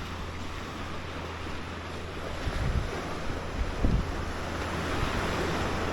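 Ocean surf washing onto the beach, swelling louder in the second half, with wind buffeting the microphone in a couple of low gusts.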